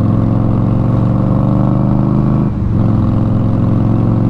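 Indian Scout Bobber Sixty's V-twin engine running steadily under way at cruising speed, with a brief break in its note about two and a half seconds in.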